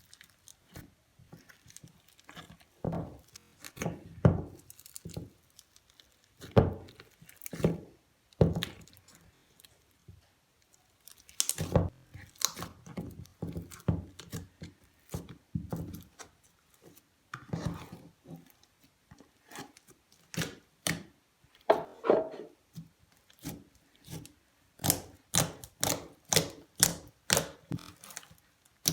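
Crunchy slime being squeezed and poked by hand, giving irregular crackles and pops that come in a quick run near the end.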